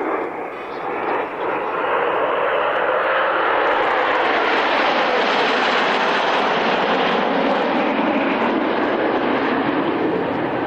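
Formation of Alpha Jet trainers, twin turbofans each, making a low flypast: jet noise builds over the first few seconds, holds loudest through the middle and eases slightly near the end.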